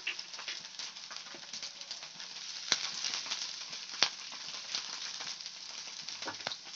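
Chopped garlic and ginger sizzling in hot oil in a non-stick wok, stirred with a wooden spatula: a steady frying hiss with two sharp clicks, about three and four seconds in.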